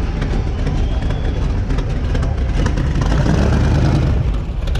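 A car engine running at idle, a steady low rumble.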